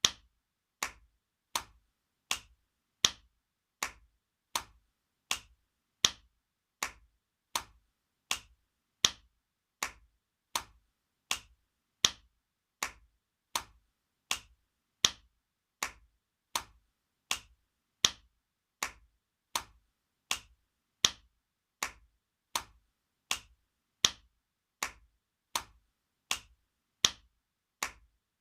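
Spanking sound effect looped: sharp hand slaps on skin, about three-quarters of a second apart, in a repeating three-second group of four where the first slap is the loudest.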